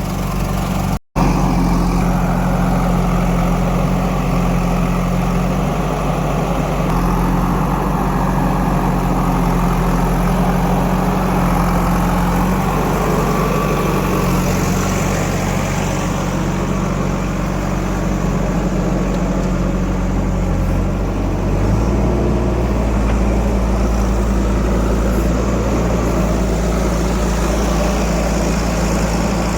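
Heavy diesel engine running steadily, its note changing about twenty seconds in.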